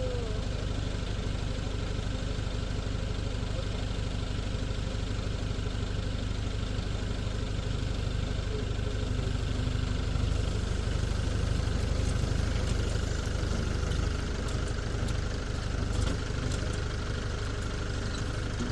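Tractor engine running steadily, a little louder for a few seconds in the middle, with a few faint clicks in the second half.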